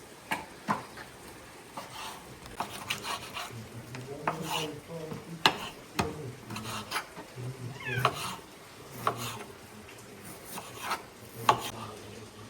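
Kitchen utensils stirring and scraping in a pot or pan, with irregular clinks and knocks and a brief squeak about eight seconds in.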